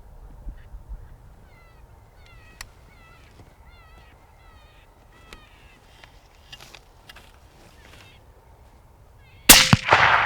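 A single loud rifle shot cracks out about nine and a half seconds in, fired at a coyote that has come in to the call, and rings on briefly. Before it, wind rumbles at the microphone and faint high chirps repeat in short runs.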